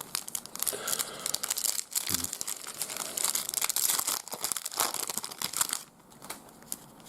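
A trading card pack's wrapper crinkling and tearing as it is opened, a dense run of crackles that stops about six seconds in.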